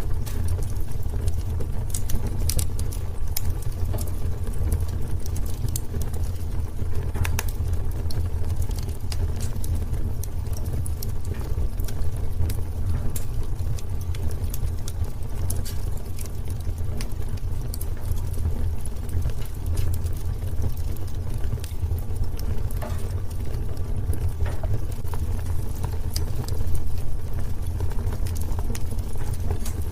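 Wood fire burning in a fireplace: many small, sharp crackles over a steady low rumble of the flames.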